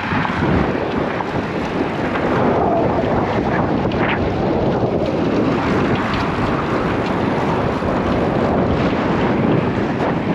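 Strong wind blowing across the microphone of a moving bicycle, a loud steady rush and rumble without let-up.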